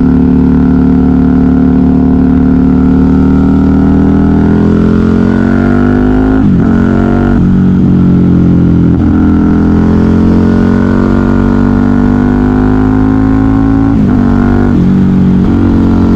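KTM 990 Super Duke R's V-twin engine through a custom exhaust, ridden under load. The note holds steady, then climbs in pitch as the bike pulls, with the note breaking and dropping a few times at the gear changes.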